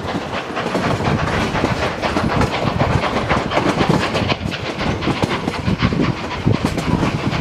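Durango and Silverton narrow-gauge steam train running, its cars' wheels rumbling on the track with many quick, irregular knocks from the rails, heard from an open observation car.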